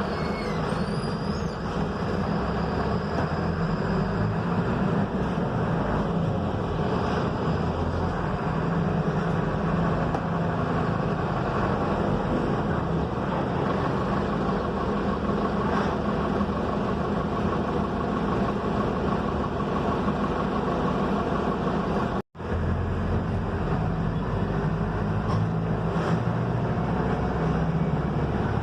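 Mercedes-Benz OF-1721 diesel bus under way, heard from the passenger cabin: a steady engine hum with road and body noise. The sound drops out completely for a moment about 22 seconds in.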